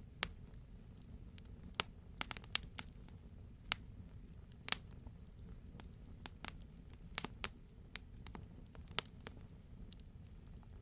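Wood campfire crackling: irregular sharp pops and snaps, more than a dozen, over a low steady rumble.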